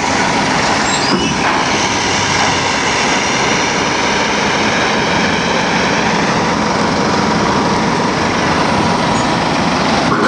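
Heavy machine's engine running steadily under a constant load, with no change in pitch or level.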